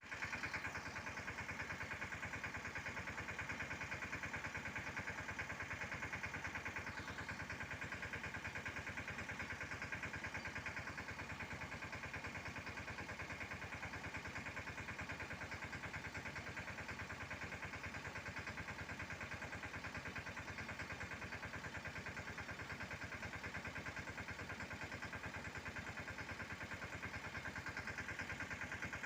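Mahindra Yuvraj 215 mini tractor's single-cylinder diesel engine running steadily at a constant speed.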